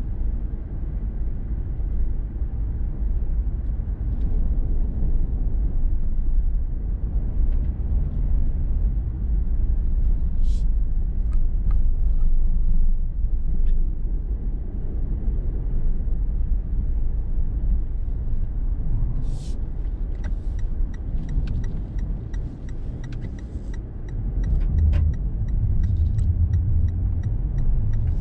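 A car driving along a road: steady low road and engine rumble heard throughout. A few sharp clicks come partway through, and a run of light ticks comes in the second half.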